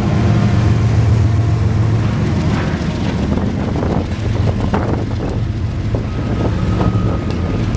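Diesel-hauled freight train running past close by: a steady low engine rumble with irregular clicks from the wheels.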